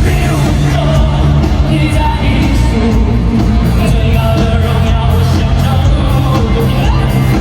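Live pop concert music through a stadium sound system: a loud amplified band with heavy, steady bass and a singer's voice, with fans yelling along.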